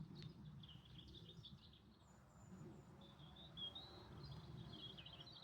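Faint birdsong: small birds chirping and warbling steadily, over a low background rumble.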